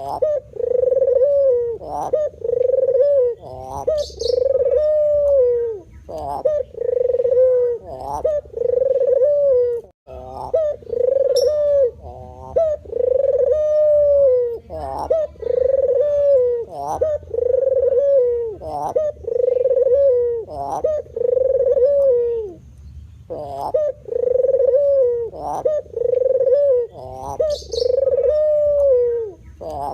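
White spotted dove (terkukur) cooing over and over, a steady run of low coos about one a second with a short break twice. A faint high chirp cuts in twice.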